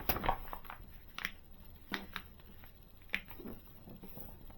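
Scattered light clicks and taps of small plastic model-kit parts and screws being handled and set down on a table.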